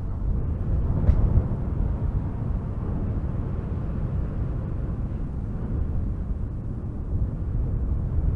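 Strong wind gusting through spruce trees: a deep, steady rumbling rush that swells briefly about a second in.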